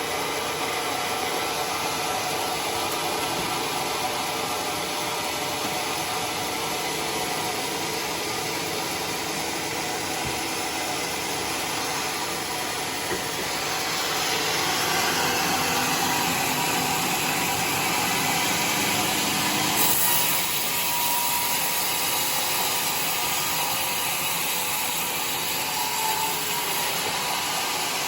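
Sawmill saw running and cutting through a charred bayur log, a continuous sawing noise that grows louder for several seconds past the middle and then eases back.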